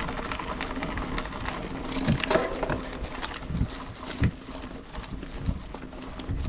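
Mountain bike riding over a rough, rocky trail: a constant rattle of chain and frame with several louder knocks as the wheels hit bumps.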